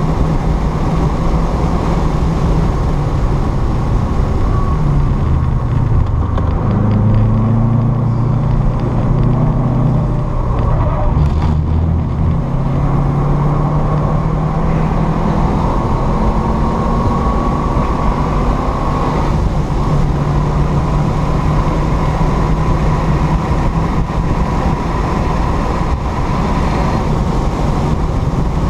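Car engine heard from inside the cabin at track speed over steady road and wind noise. The engine note shifts and drops as the car slows hard for a tight corner in the first half, then holds and climbs as it accelerates back up past 100 mph.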